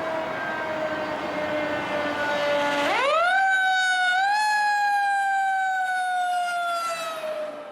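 Fire apparatus siren sounding while responding: a slowly falling wail that sweeps sharply up about three seconds in, then slowly drops again, with truck engine noise underneath early on.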